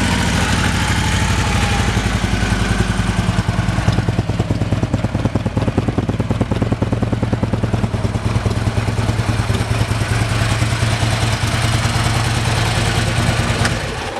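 Harley-Davidson Electra Glide Ultra Classic Low's 103 cubic inch V-twin running at a steady idle through a Vance & Hines aftermarket exhaust, a loud even pulsing. It cuts off abruptly near the end.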